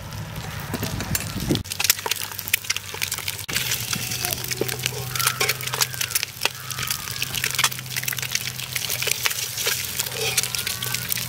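Eggs frying in pepper masala in a pan, sizzling with dense, irregular crackling.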